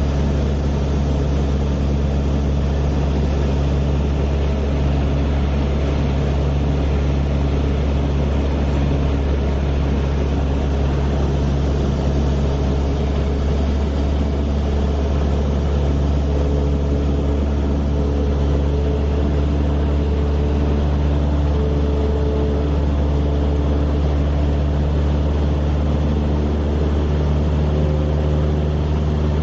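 Steady, unbroken drone of a helicopter's engine and rotor, a loud low hum with a steady whine above it.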